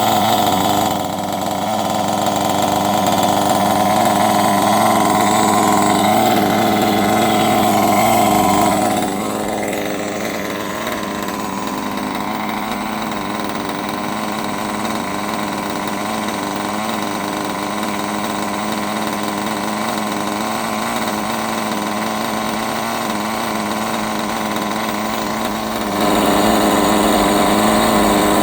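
Glow-fuel nitro engine of a Kyosho RC engine buggy running steadily at a fast speed, dropping to a slower, quieter idle about nine seconds in, then picking up speed again near the end.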